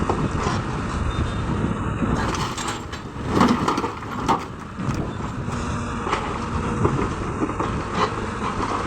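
Heavy diesel machinery of a Hyundai excavator loading a stone truck, running steadily, with a burst of clanking and scraping metal and rock from about two to five seconds in.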